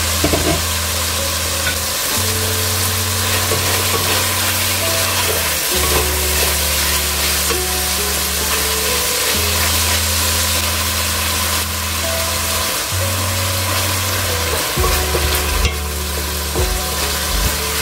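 Chicken pieces and onion sizzling steadily in hot oil in a pot, sautéing, with a wooden spatula now and then scraping and stirring them around the pot.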